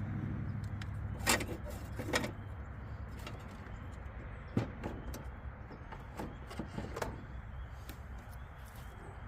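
A handful of sharp clicks and light knocks, spaced a second or more apart, from parts being handled, over a steady low hum.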